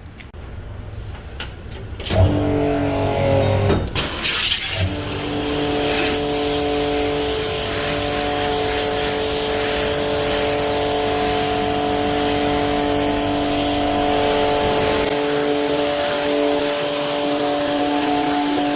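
Cordless pressure washer starting up about two seconds in, its motor rising in pitch, then running steadily with a strong hiss of water spray as the car is rinsed.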